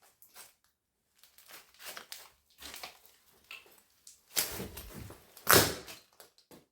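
Footsteps crunching and scuffing over debris and litter on the floor: irregular crackles, with the two loudest crunches about four and a half and five and a half seconds in.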